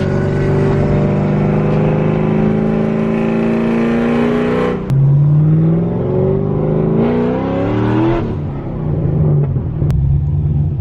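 A car's engine pulling hard under acceleration, its pitch climbing steadily, with an upshift about five seconds in and another about eight seconds in, then running steadier in a higher gear.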